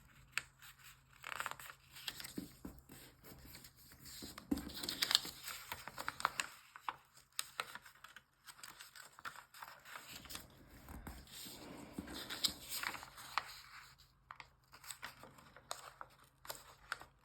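Origami paper being folded and creased by hand as its corners are turned in: irregular crinkling rustles and scrapes in uneven clusters.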